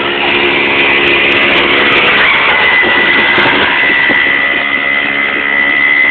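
Mini bike's small engine running steadily, with a steady high-pitched whine over it and its pitch wavering a little in the middle.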